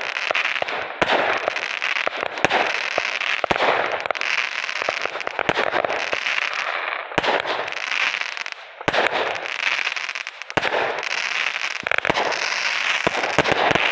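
Consumer fireworks going off in quick succession: dense crackling with many sharp bangs and pops, easing briefly a few times before starting up again.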